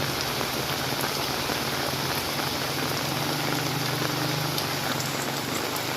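Steady rain falling, an even hiss of drops on hard surfaces. A low steady hum joins it from about two to five seconds in.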